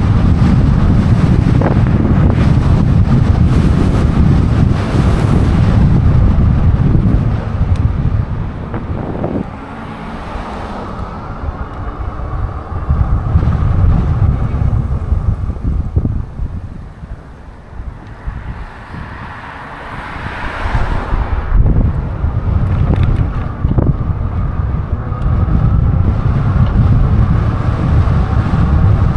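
Wind buffeting the microphone of a moving e-bike, a heavy low rumble. It eases off for a stretch in the middle, then swells back up with a whoosh about two-thirds of the way in.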